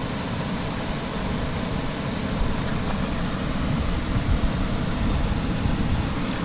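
Steady rush of fast-flowing stream water and a waterfall, with a rumbling low end and no distinct knocks or tones.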